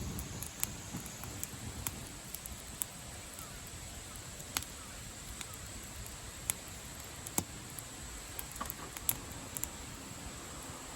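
Wood campfire crackling: irregular sharp pops and snaps over a steady background hiss.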